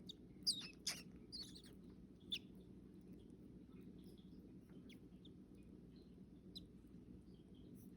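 Baby bird chirping: a cluster of short, high peeps in the first two and a half seconds, then a few fainter single chirps, over a low steady hum.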